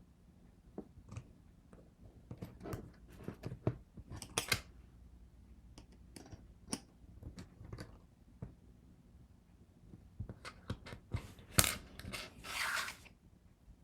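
Scattered small clicks and taps of hands working with small craft pieces and tools, with a short scraping rustle near the end.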